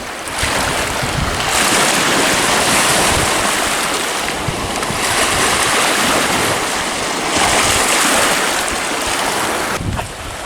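Lake waves washing onto the shore, swelling and easing in surges every couple of seconds, with wind buffeting the microphone.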